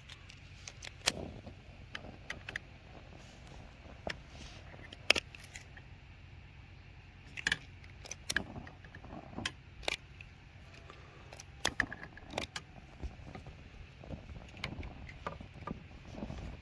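Irregular light clicks, taps and clinks of small objects being handled, a dozen or so scattered through, over a low steady rumble.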